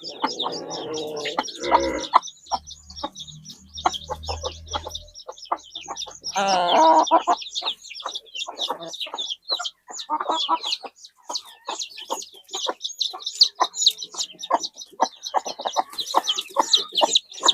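Chickens clucking, with louder calls about a second in and again around six seconds in, over dense, rapid, high chirping. A brief low rumble sits under it a few seconds in.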